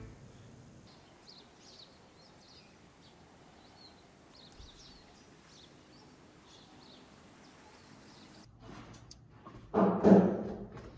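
Faint high bird chirps over quiet open-air background. Near the end a sudden, much louder rushing noise with a low hum cuts in.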